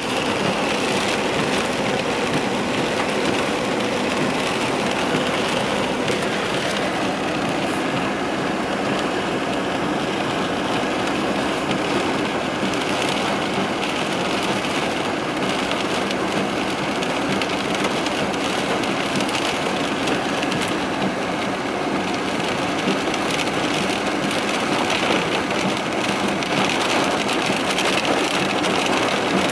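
Torrential rain falling heavily, a dense, steady hiss that holds at the same level throughout.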